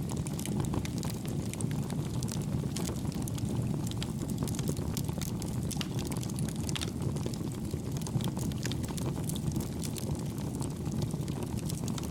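Campfire burning: a steady low rumble with many small, quick crackles and pops.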